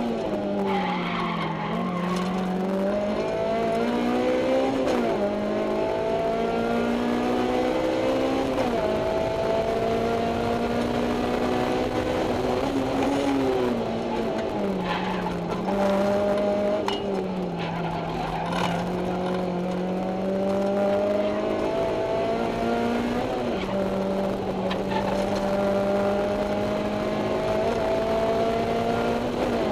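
Honda S2000 four-cylinder engine breathing through a Mugen header and EVS 70-SSP exhaust, heard from inside the cabin with the windows open, run hard on track. The pitch climbs steadily through the revs and drops abruptly on upshifts about five and nine seconds in. It sags and climbs again through slower sections later on.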